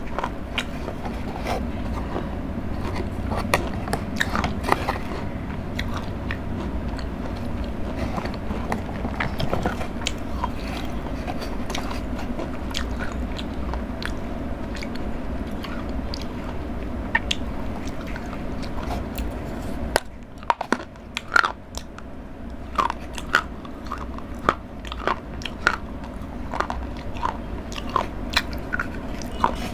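Close-up chewing and biting of Cadbury Dairy Milk chocolate, with many small sharp crunching clicks. A steady low background hum underneath stops about two-thirds of the way through, after which the crunches stand out more clearly.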